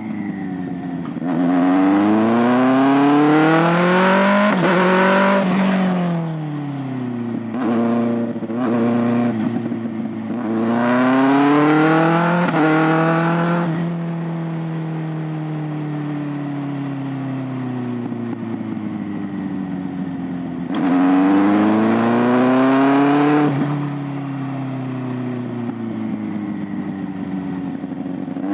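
Kawasaki ZX-6R 636 inline-four engine and exhaust accelerating and easing off repeatedly, the pitch climbing and falling several times. There are quick short revs about eight seconds in and a long, slowly falling, steadier stretch in the middle.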